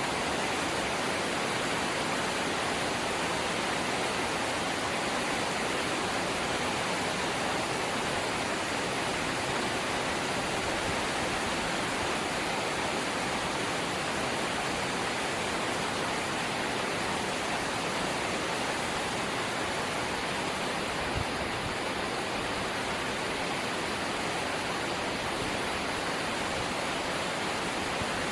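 Light rain falling steadily, an even hiss at a constant level. One brief low thump about three-quarters of the way through.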